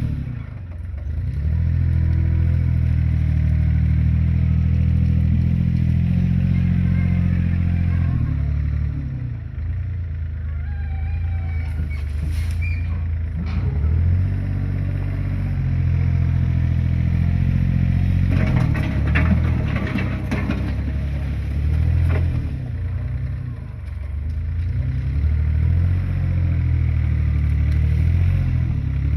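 Heavy diesel engine of construction machinery running, its revs rising and falling several times, with metallic clanks and knocks at intervals, most clustered about halfway through and again about two-thirds of the way in.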